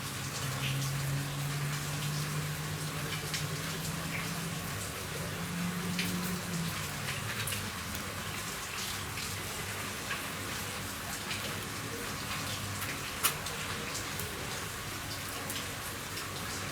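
Rain falling on a roof: a steady hiss with many separate drops ticking, one sharper tap about thirteen seconds in. A low hum sounds underneath for the first half, stepping up in pitch about five seconds in and fading out later.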